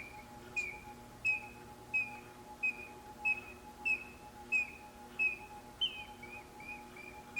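Mechanical whistled birdsong from a West German ELPA singing-birds automaton: a steady series of short, downward-slurred chirps at about one and a half per second. Near the end comes one higher, longer falling note, then quicker, softer chirps, with a faint steady hum of the mechanism beneath.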